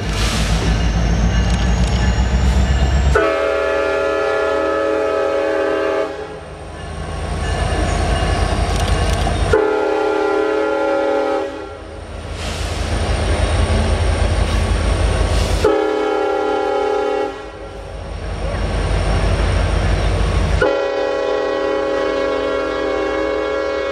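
Diesel locomotive of a Canadian National ore train sounding its multi-chime air horn four times, the third blast shorter, in the long-long-short-long pattern for a grade crossing. Between blasts the locomotive's heavy low engine rumble comes through as it works past.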